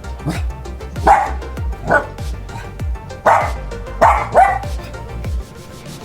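A dog barking about six times in short, sharp yelps, over background music with a steady bass beat.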